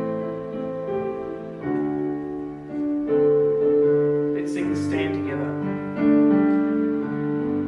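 Piano playing slow, sustained chords, with a short hiss about four and a half seconds in.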